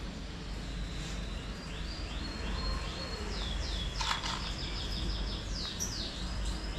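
A small bird chirping in quick runs of high falling notes, over a steady low hum. There is a single sharp click about four seconds in.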